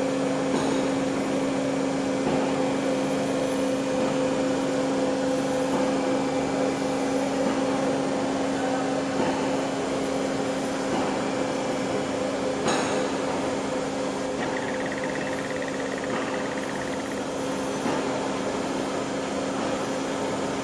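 A machine running with a steady hum and a constant noisy whir, with one short knock about thirteen seconds in.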